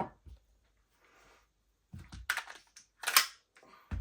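Handling noises: a series of short clicks and clacks, a few in quick succession about two seconds in and the loudest about three seconds in.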